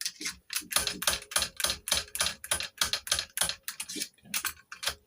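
Quick, even run of short rasping metal strokes, about five a second, from a cut-down key blank being worked while impressioning a Chubb detector lever lock. The strokes stop just after the end.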